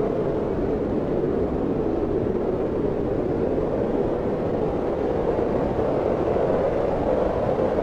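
Steady wind blowing, a constant low rushing with no gusts or breaks.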